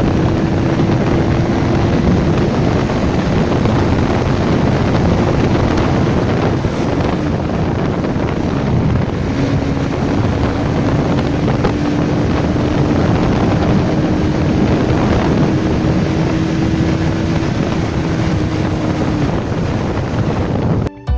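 Bajaj Pulsar NS200's single-cylinder 200 cc engine pulling hard at speed, buried in heavy wind noise on the microphone. The engine note climbs slowly, drops once about nine seconds in as at an upshift, then climbs again until it fades near the end.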